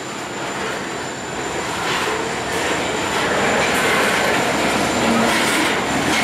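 Freight train cars rolling past at close range: a steady rumble and clatter of steel wheels on the rails, growing a little louder after about two seconds.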